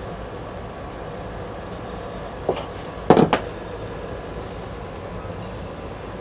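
Two short metallic clanks about half a second apart, the second louder and briefly ringing, over a steady low hum: pieces of ceiling-fan scrap metal being handled and knocked together.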